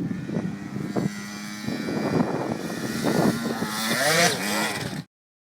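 KTM 50 motocross bike's small single-cylinder two-stroke engine running, its revs surging up and down several times. The sound cuts off suddenly about five seconds in.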